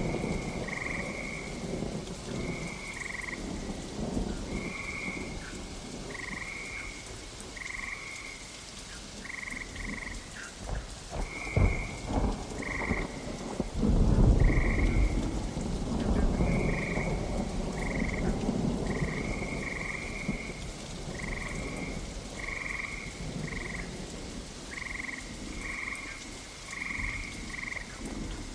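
Steady rain with frogs croaking in short repeated calls throughout. Thunder cracks and rumbles about halfway through.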